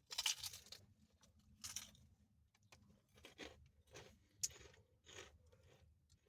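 Close-up chewing and crunching of takeout Chinese food, in irregular bursts, the loudest right at the start.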